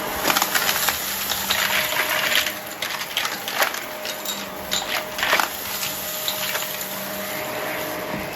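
Vacuum cleaner running with a steady hiss and hum. Through roughly the first five seconds, sharp clicks and crackles sound as debris is sucked up, then it settles back to just the running hiss.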